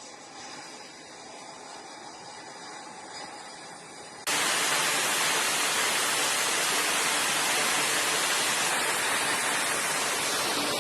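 A loud, steady rushing noise starts abruptly about four seconds in, over a quieter low background, and holds until near the end.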